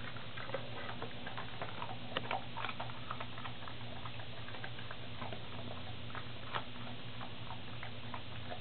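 A dog chewing and licking a piece of chicken, making quick, irregular small clicks and smacks, over a steady low hum.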